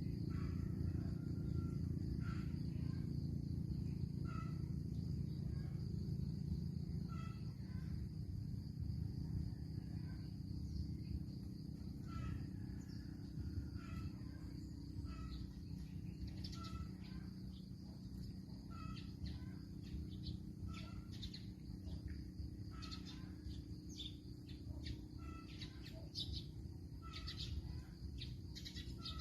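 Outdoor birdsong: one bird repeats a short call about every second and a half, and other birds add quick high chirps in the second half. A steady low rumble runs underneath.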